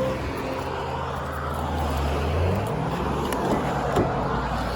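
Car engine running with a steady low hum. Its pitch shifts about halfway through.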